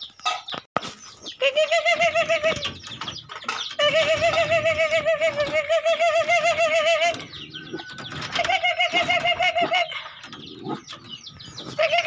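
A bird calling loudly at close range in long runs of rapid, wavering trills, about eight pulses a second. There are four bouts with short breaks between them, the longest lasting about three seconds. A few sharp knocks come right at the start.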